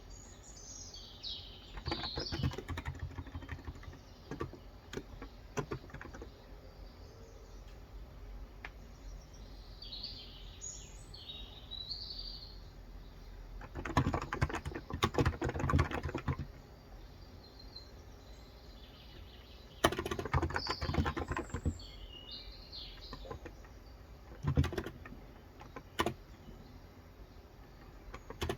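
Bursts of typing on a Cox Endeavor 35 g electro-capacitive (Topre-style) tenkeyless keyboard: a short run near the start, a long run about halfway through and another a few seconds later, then a couple of lone keystrokes, with pauses between. Birds chirp outside in short calls near the start, in the middle and during the later run of typing.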